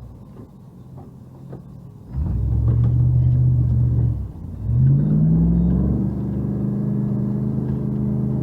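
Car engine revved hard twice: a first push about two seconds in that holds, then drops, then a second climb about five seconds in that settles into steady high revs, as the car works through deep snow.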